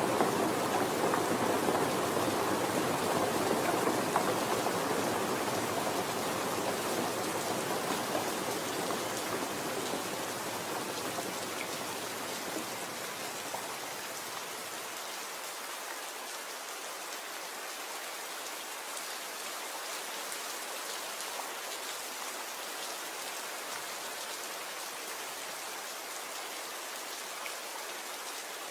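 Steady rain falling. A deeper, louder rushing layer fades out over the first half, leaving lighter, higher-pitched rain.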